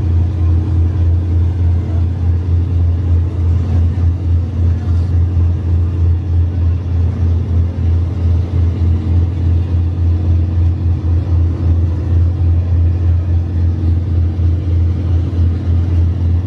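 Car engine idling with a steady low rumble, its loudness wavering a few times a second, with no revving.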